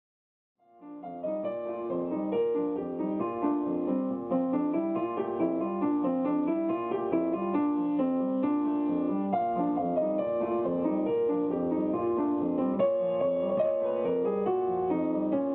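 Piano music that starts about half a second in and plays a steady run of notes.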